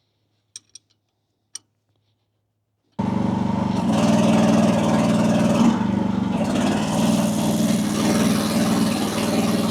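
A few faint small clicks in near silence, then about three seconds in, abruptly, the AGT WH12R mini excavator's engine running steadily with its hydraulics working, as the relief pressure is tested after a slight turn of the relief valve adjuster.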